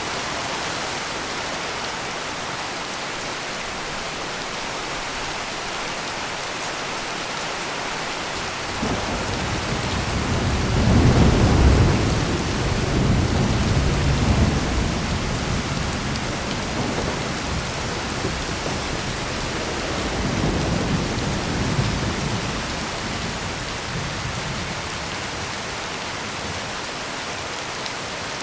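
Steady heavy rain pouring, with a long rolling thunder rumble that builds about a third of the way in and fades over several seconds, followed by a smaller second rumble.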